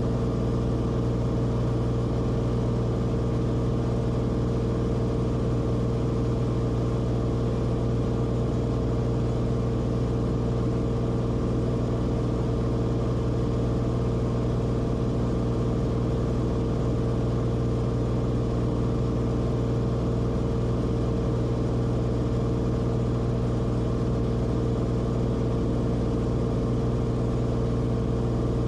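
Cessna Corvalis TTX's turbocharged six-cylinder engine and propeller droning steadily in flight. There is a strong low hum with a few steady higher tones above it, and no change in pitch or level.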